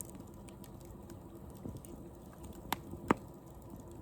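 Wood fire crackling with faint scattered ticks, then two sharp pops about half a second apart late on, the second the loudest.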